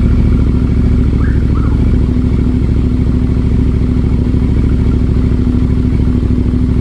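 Yamaha Ténéré 700's parallel-twin engine running steadily at idle through a Yoshimura exhaust, with an even pulsing beat.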